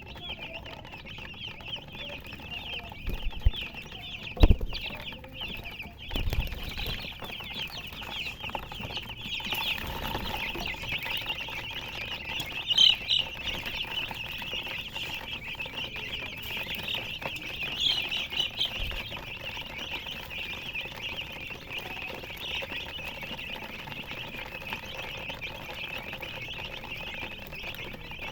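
A brood of baby chicks peeping without pause, a dense high chorus of many short chirps, with a hen clucking now and then. A few low thumps come in the first quarter and once more later on.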